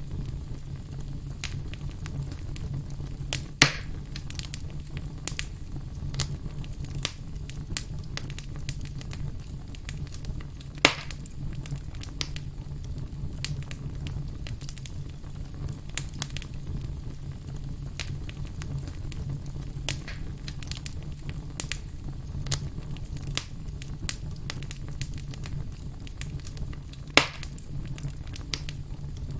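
Firewood logs burning and crackling, with a steady low rumble and frequent small snaps. Three much louder pops come about three and a half, eleven and twenty-seven seconds in.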